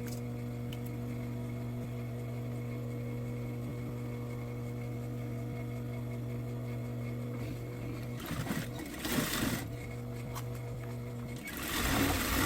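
Sewing machine running: a steady motor hum, then two short stitching runs of a second or so each, about eight and eleven and a half seconds in.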